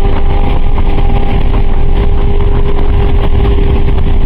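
A car driving, heard from inside: a loud, steady engine drone holding one pitch over a heavy low rumble of road and wind noise.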